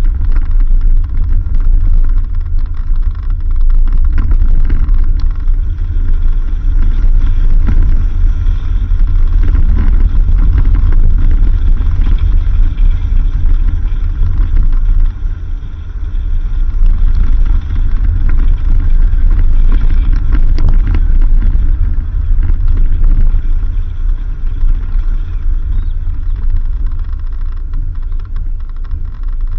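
Vehicle driving on a dirt road: a loud, continuous low rumble of engine and tyres with rough, fluttering buffeting, easing briefly about halfway through.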